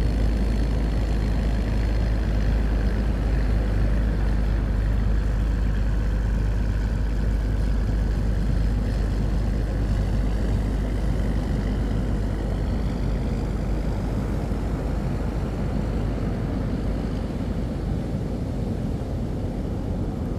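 Twin 200 HP Suzuki outboard motors heard at a distance, their pitch slowly rising and falling as the boat works back and forth through the surf. Heavy wind rumble on the microphone and surf noise lie under them.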